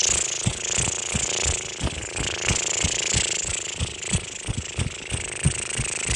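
A person fluttering the lips through a long exhale, a buzzing lip trill done to relax the face, with soft low thumps several times a second.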